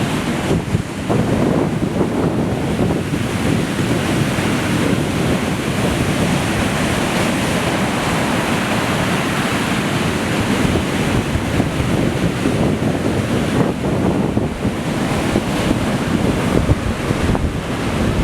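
Strong tropical-storm wind buffeting the microphone over heavy surf breaking on the beach, a steady loud rush of wind and waves.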